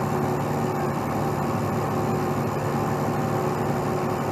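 Heavy truck diesel engine running steadily at an even, unchanging speed.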